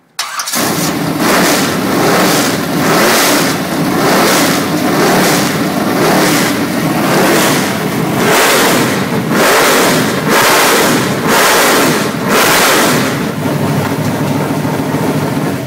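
Chevy 350 small-block V8 race engine firing up and running very loud, its throttle blipped over and over in quick revs. It cuts off suddenly near the end.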